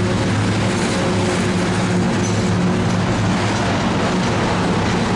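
Freight train of oil tank cars rolling past, a steady rumble of steel wheels on rail with a low hum underneath.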